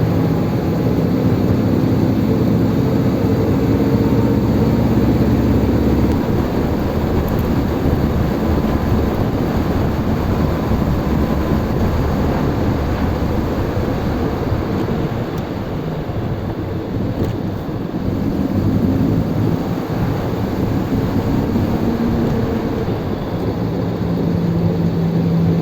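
Ford 100E's 1172 cc sidevalve four-cylinder engine and road noise heard from inside the moving car, the engine note changing about six seconds in. The cabin has no carpet, so the drone comes through loud, but the newly replaced gearbox rear mount makes it a lot quieter than the failed one did.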